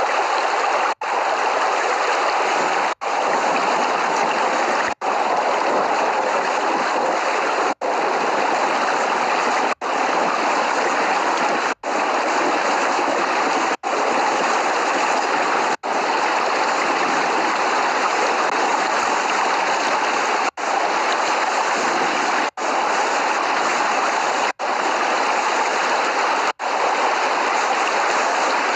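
Steady heavy rain, a continuous rushing hiss with no thunder, cut off for an instant about every two seconds.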